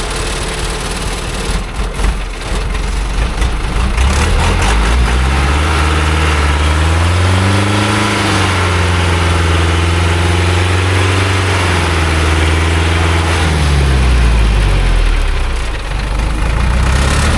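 A loaded small logging truck's engine revving up under load, held high for several seconds, then dropping back, as the truck strains to climb a slippery, muddy slope.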